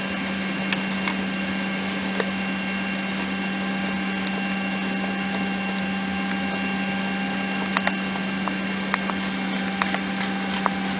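Steady drone of a Boeing 737-300 running on the ground, with a strong low hum and a few faint clicks in the second half.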